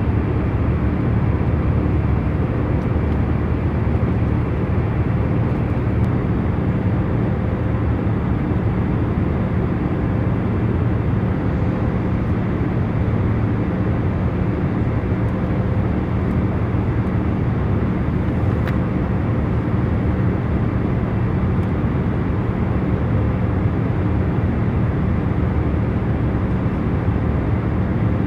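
Steady jet airliner cabin noise in cruise: an even rushing noise strongest in the low and middle range, with a faint steady hum underneath.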